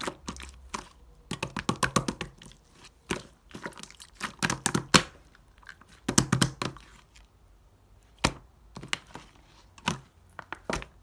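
Clear slime being pressed and stretched by hand, giving off runs of sharp wet clicks and pops, denser in the first seven seconds and sparser later.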